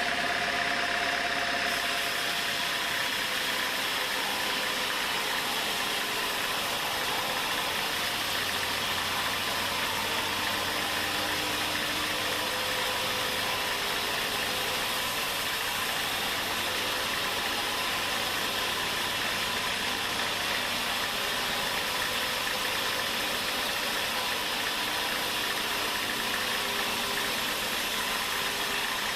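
Sawmill machinery running steadily, an even mechanical drone.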